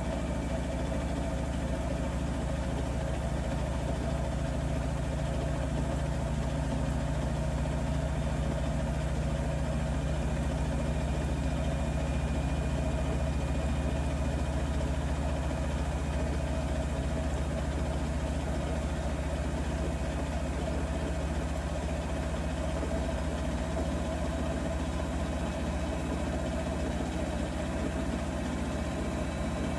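Bosch Serie 4 WAK20260TR front-loading washing machine spinning at steady speed near the end of its cycle: a constant deep hum with a steady motor whine over it.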